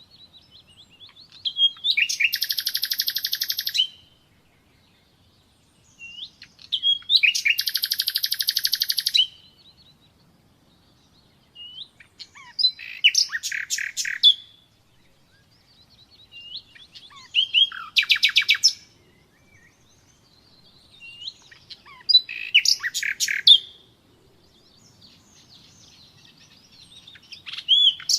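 Common nightingale singing in separate phrases with short pauses between them. Two phrases are long, fast, rattling trills, and the others are quick runs of clicks and whistled notes.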